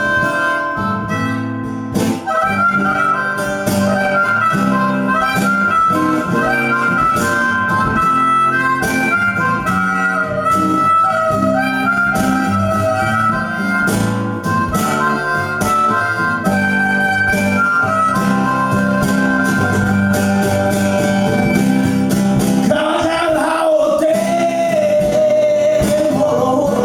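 Harmonica solo over a strummed acoustic guitar, an instrumental blues break in a live duo's song. Near the end the melody settles on a long, wavering held note.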